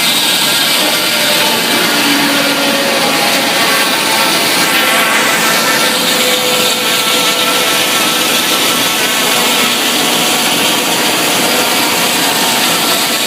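Sawmill machinery running steadily and loudly without a break, a dense mechanical noise with several faint steady whining tones through it.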